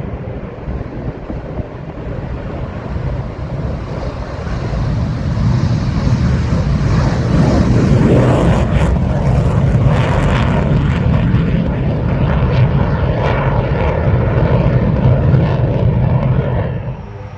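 Aircraft engine noise building up to a loud, steady level as a plane departs, then cutting off abruptly near the end.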